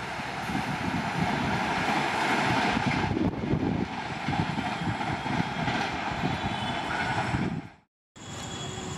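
Express passenger train passing close at speed: a continuous rush and rumble of wheels on the rails, cutting off abruptly near the end.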